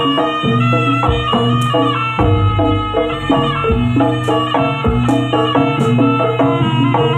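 Traditional Indonesian ensemble music played live, with percussion keeping a steady beat under melodic instruments.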